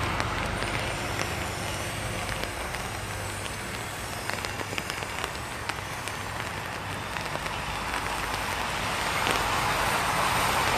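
Steady rain with many small, quick ticks of drops hitting an umbrella overhead. A low traffic rumble fades out near the start.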